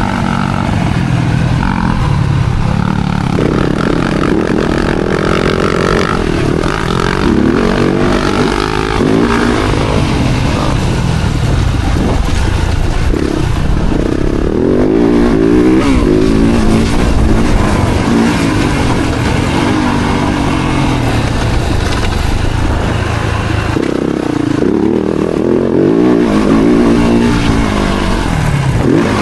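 Four-stroke motocross bike engine revving up and down over and over, its pitch climbing and dropping, as on a dirt track. Loud and continuous throughout.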